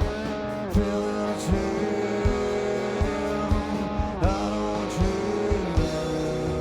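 A live rock band playing: electric guitar holding and bending notes over a steady drum beat, the kick drum landing about every three-quarters of a second.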